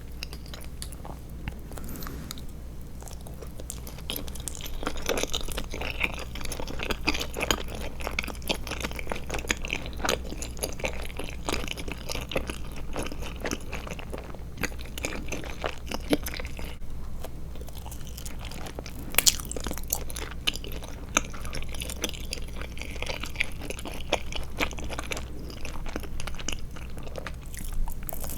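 Close-miked chewing of eyeball-shaped gummy candy: continuous wet, crunchy mouth sounds made of many small irregular clicks and squelches.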